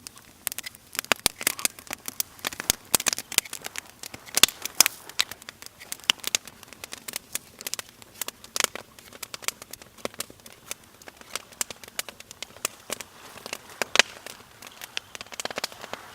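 Wood campfire crackling and popping, with irregular sharp snaps and one louder pop near the end.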